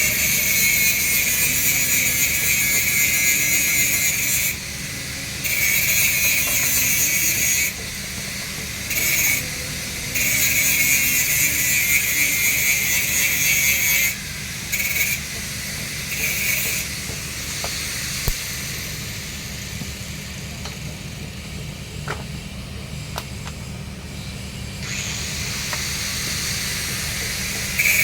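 Welding arc on steel pipe crackling and hissing in stretches, breaking off and striking again several times, over a steady low machine hum. The arc goes quiet about two-thirds of the way through, leaving only the hum and a few small clicks.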